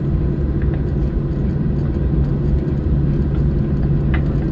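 Cabin noise of a Boeing 737-600 rolling on the ground after landing: a steady low rumble with a constant hum from its CFM56 engines.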